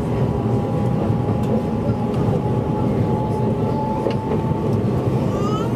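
Electric commuter train running along the track, heard from the cab: a steady rumble of wheels on rails with a faint steady motor whine and a few clicks from the track.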